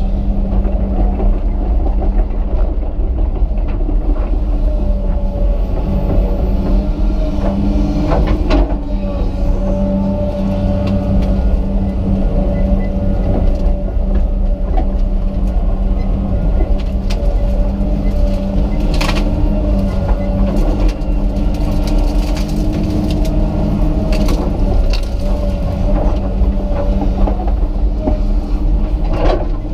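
Komatsu PC200 excavator's diesel engine running steadily under load with a steady whine, broken by occasional sharp cracks and knocks as it works.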